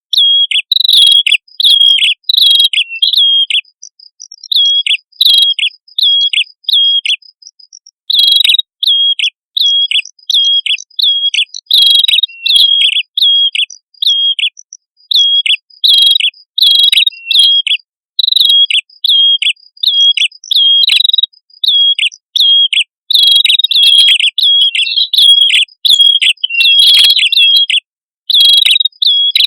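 Prenjak kepala merah (red-headed prenjak) songbirds calling: rapid phrases of repeated sharp, hooked chirps, with a faster run of thin, even pips above them, coming in bursts of one to a few seconds with short gaps.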